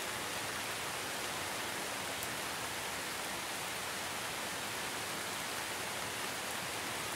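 Steady, even hiss of recording background noise with no other sound.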